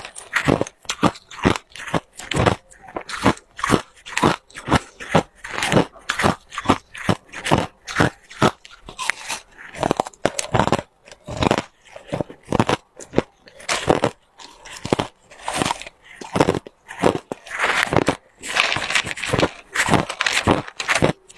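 Close-up biting and chewing of ice cubes: a steady run of sharp, loud crunches, about two to three a second, as the ice is cracked and ground between the teeth.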